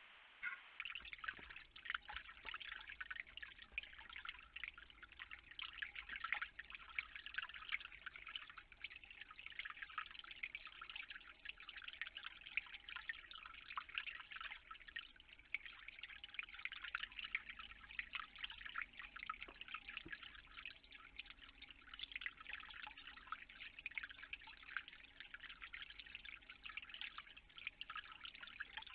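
Water dripping: a dense, steady patter of small drips.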